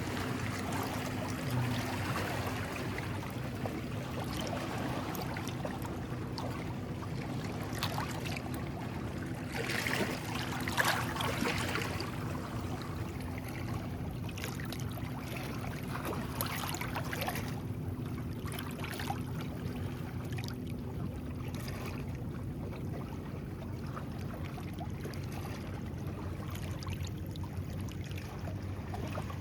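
Small sea waves lapping and washing on the shore, with a louder wash about ten seconds in.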